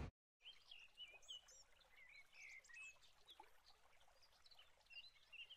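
Near silence outdoors, with faint, scattered birdsong: many short high chirps and quick up-and-down whistles.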